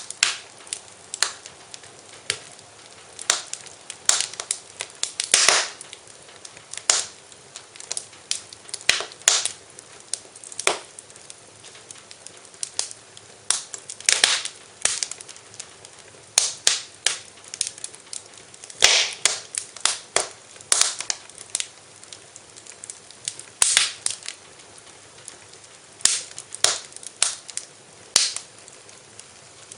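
Fire in a fireplace crackling: irregular sharp pops and snaps, a few of them louder, over a faint steady hiss.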